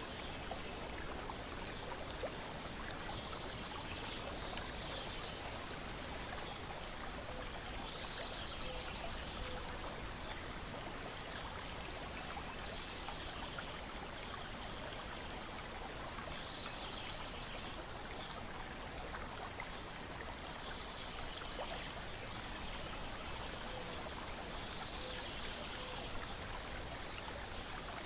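Lake water lapping and splashing against a shore and deck in a steady wash that swells about every four seconds, with a few faint crackles from a wood fire.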